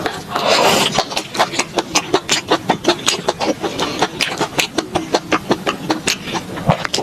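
Close-miked chewing of fried enoki mushroom skewers: a noisy bite in the first second, then a quick, regular run of crisp, wet chewing clicks, several a second.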